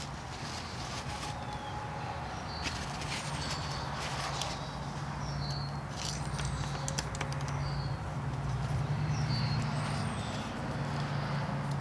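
Small birds chirping, a short call repeating about every second and a half, over a low steady hum.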